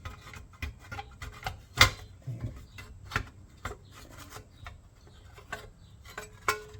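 Irregular metallic clicks and knocks of hand tools and engine parts being handled on a workbench, the loudest knock about two seconds in.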